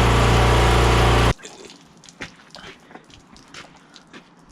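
A loud, steady motor running, which stops abruptly a little over a second in. Then comes quiet, with light clicks and knocks.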